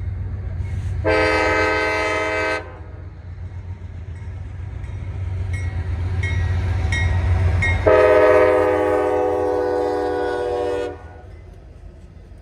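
Lead diesel locomotive's multi-chime air horn sounding a short blast, then a long one of about three seconds near the end. This is the tail of a grade-crossing horn sequence, over the steady low rumble of the approaching freight train's locomotives.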